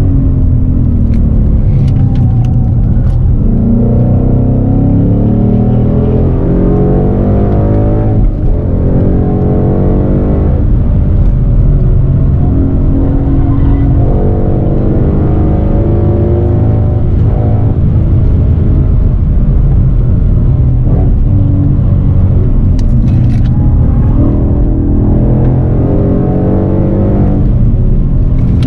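2015 Ford Mustang GT's 5.0-litre V8 with a Borla ATAK exhaust, heard from inside the cabin while being driven hard on track. The engine note climbs in pitch again and again and falls back sharply at each gear change or lift off the throttle.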